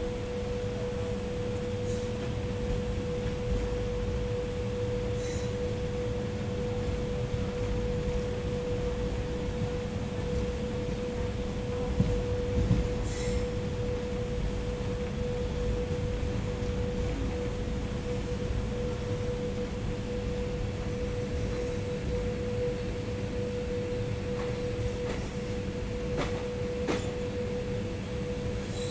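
Passenger train running: a steady low rumble with a constant whine held on one note throughout, and a few faint clicks.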